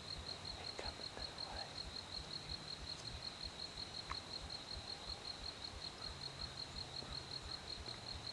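An insect trilling steadily, a high thin note pulsing several times a second, over a low rumble of wind on the microphone, with a few faint clicks.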